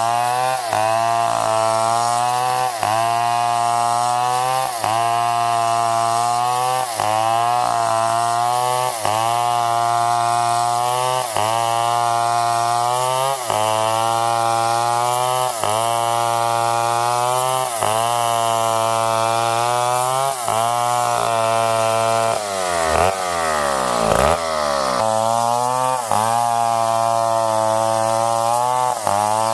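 Stihl 070 single-cylinder two-stroke chainsaw running hard while cutting wood, its engine note dipping and recovering about every two seconds. Near the end the revs fall steeply and climb back up.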